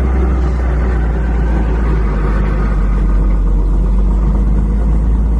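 Robinson R44 helicopter's engine and rotor running, heard from inside the cabin as a loud, deep, steady drone.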